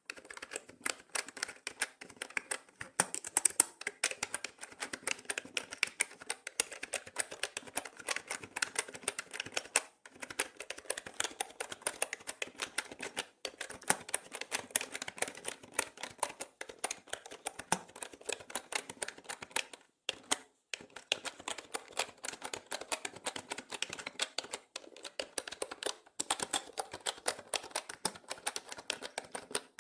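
Mechanical keyboard typed on in fast, continuous bursts of key clicks, with a few brief pauses between runs.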